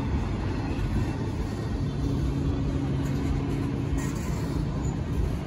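Freight train of double-stack container well cars rolling past close by: a steady rumble of steel wheels on the rails. A low steady hum comes in for about two seconds midway.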